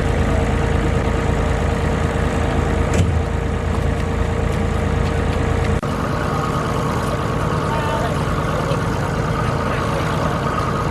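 Tractor engine idling steadily, with a change to a similar engine sound about six seconds in.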